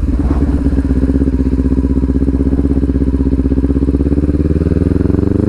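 Kawasaki Ninja 400's 399cc parallel-twin engine running at a steady, low engine speed through an Akrapovic exhaust with the dB killer removed. The exhaust note is loud and evenly pulsing, and its pitch rises slightly near the end.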